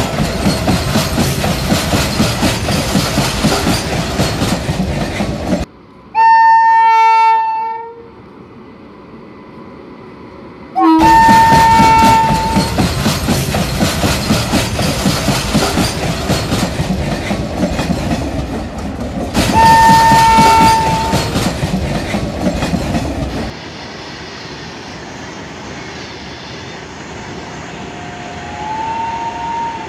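Train running with a dense rattle of wheels clattering over the rails, broken by loud horn blasts about six, eleven and nineteen seconds in. The longest blast lasts about two seconds. After about twenty-four seconds the rattle stops and a quieter steady hum is left.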